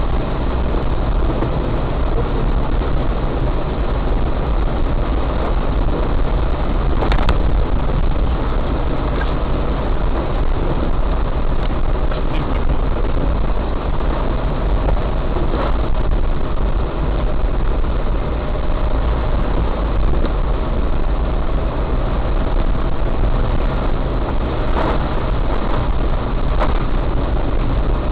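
Heavy rain falling on a car, mixed with steady engine and road noise. A few sharp clicks come about eight to nine seconds apart.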